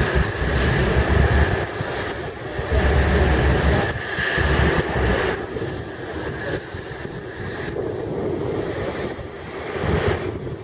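Airbus A330-200's jet engines running, loud at first and slowly fading, with uneven low buffeting mixed in.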